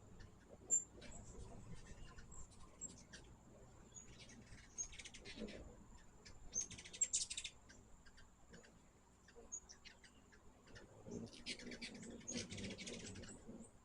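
Hummingbirds chipping and chattering: several quick rattling bursts of high ticks, with single sharp chips between them. A faint, steady high whine runs underneath.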